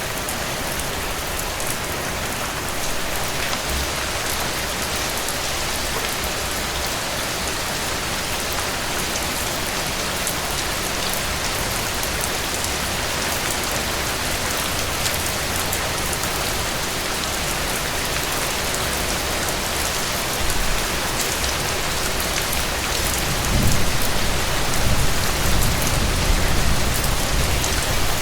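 Heavy rain falling steadily. Near the end a low rumble swells up beneath it and the whole sound grows a little louder.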